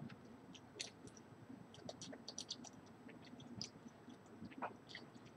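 Faint, irregular gulping and throat clicks of a man chugging tequila straight from the bottle.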